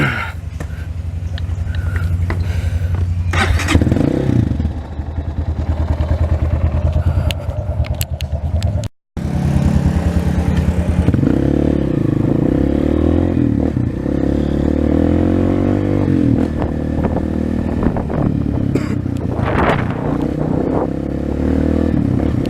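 A 230 cc trail motorcycle engine running, its pitch rising and falling as it is revved. The sound cuts out completely for a moment about nine seconds in.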